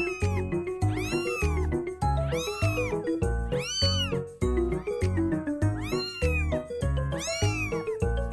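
Kitten crying, with high mews that rise and fall, repeating about once a second, over background music with a steady bass beat.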